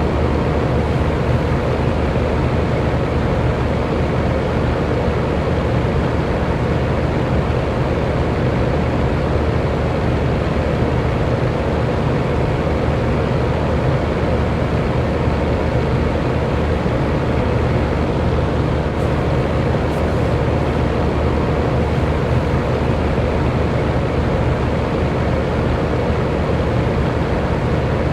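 Electric fan running steadily: an even whooshing of moving air with a low motor hum underneath.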